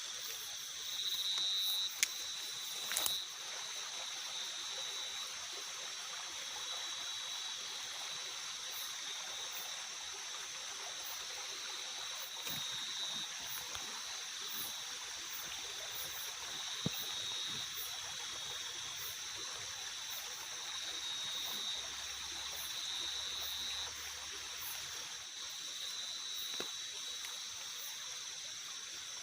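Night forest ambience: a steady watery hiss, with a steady high-pitched drone and regular very high chirps over it. A few sharp clicks stand out near the start and once in the middle.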